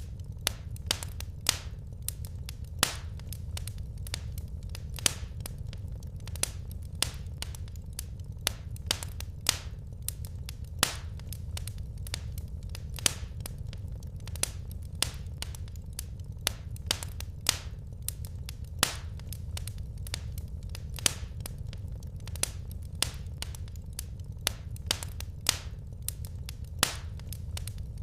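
Wood fire crackling in a fireplace: irregular sharp pops and snaps, sometimes several a second, over a steady low rumble.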